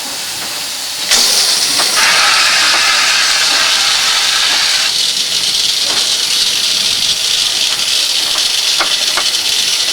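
Eureka narrow-gauge steam locomotive venting steam: a loud, steady hiss that starts suddenly about a second in and swells a second later.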